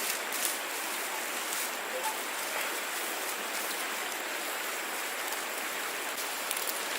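Steady water noise, an even hiss with a few faint crackles near the start.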